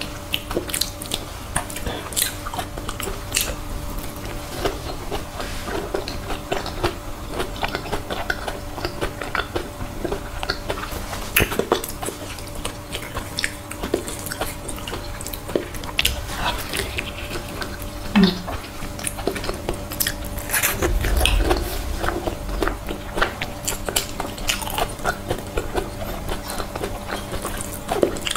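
Close-miked wet chewing and lip smacking of soft durian flesh, a dense run of small sticky clicks and smacks, over a faint steady hum.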